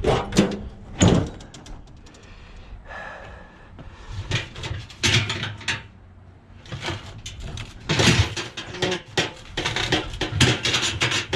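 Knocks and rattling clatter of heavy scrap objects being lifted and moved about, in two bursts, with a few single thumps early on.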